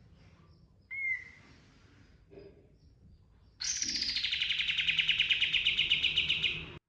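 Kapas tembak bulbul singing: a single short whistled note about a second in, then a loud, rapid rolling trill of fast repeated notes that starts high, settles lower and cuts off suddenly after about three seconds.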